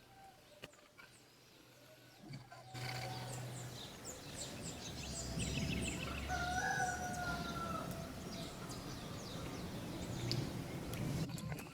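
A rooster crowing once about six seconds in, among small birds chirping.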